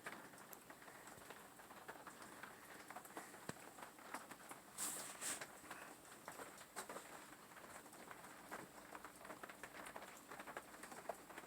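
Near silence, with faint scattered ticks and clicks and two brief hissy sounds about five seconds in.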